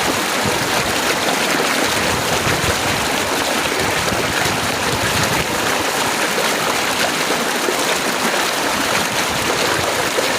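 Heavy rain falling fast and steadily, a dense, even hiss of countless drops.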